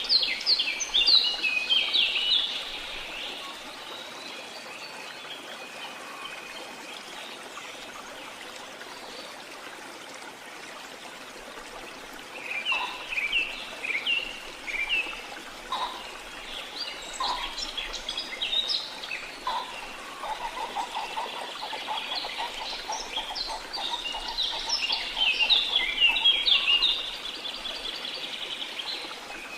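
Rainforest ambience: a steady wash of water noise under bursts of quick, high chirping bird calls that come and go. In the second half there is a fast, even, lower-pitched trill lasting several seconds.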